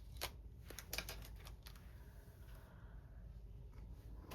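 A quick series of light clicks and taps as small craft supplies are handled on a work table, bunched in the first second and a half, then faint room tone.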